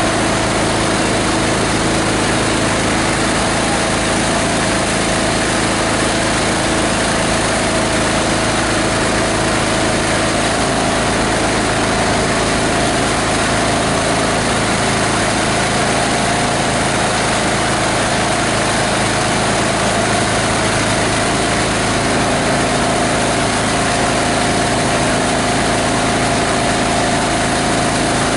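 18 HP diesel engine powering a plastic grinder, running steadily at an even speed.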